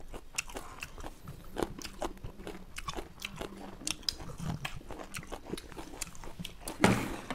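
Mouth sounds of people biting and chewing raw lemon wedges: a run of small wet smacks and clicks, with one louder burst near the end.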